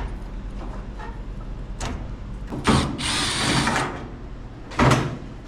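Power drill running in short bursts, loosening the fasteners on a GE dryer: a brief run about two seconds in, a longer run of about a second, and a short one near the end.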